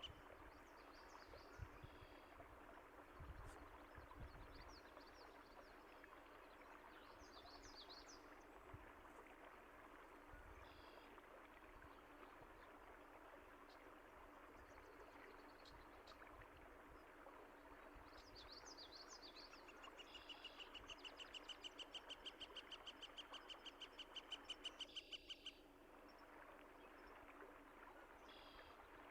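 Songbirds chirping and calling over a steady rush of flowing water. Past the middle, one bird gives a fast, high trill lasting about five seconds.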